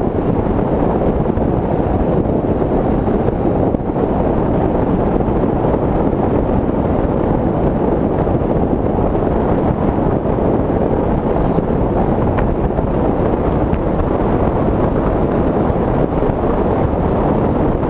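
Steady wind rushing over the onboard camera microphone of an AXN Floater-Jet RC plane in flight, mixed with the continuous noise of its electric motor.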